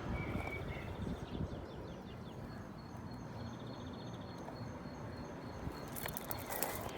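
Outdoor background noise with a small bird singing a run of short, high, evenly repeated notes through the middle.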